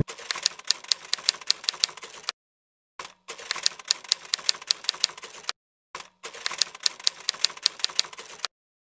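Typewriter sound effect: rapid key clicks in three runs with short pauses between them, matching text being typed out letter by letter.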